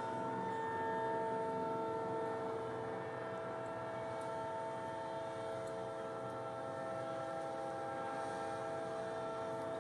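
Steady engine whine made of several held tones over a low rumble.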